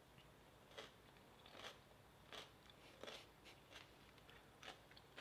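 Crisp cucumber slice being chewed with the mouth close to the microphone: a faint, steady run of crunches, about one every two-thirds of a second.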